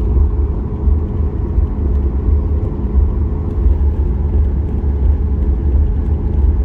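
Cabin noise of a Boeing 737 MAX 8 taxiing, heard inside the cabin: a steady, loud low rumble from the CFM LEAP-1B engines at taxi power and the rolling gear, with a faint steady hum over it.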